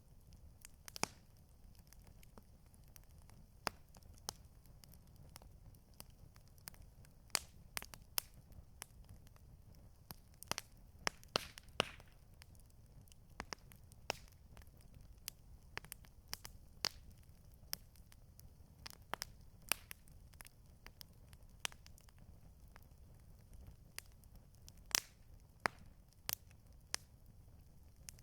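Campfire crackling: irregular sharp pops and snaps of burning wood, some close together and some alone, over a low steady rumble.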